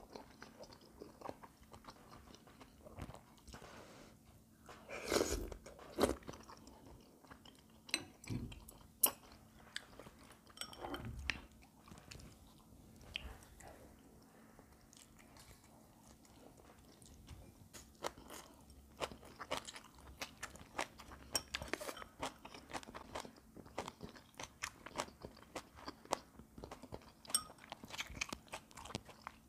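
A person chewing and crunching food close to the microphone, with many short clicks of metal chopsticks against dishes and a louder burst about five seconds in. A faint steady hum runs underneath.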